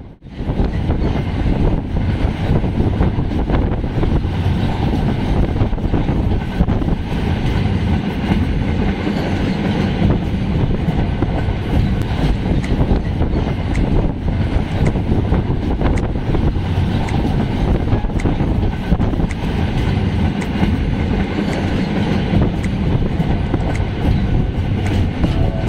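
Passenger train running, heard from inside the coach through an open barred window: a steady low rumble and rattle of wheels on the rails.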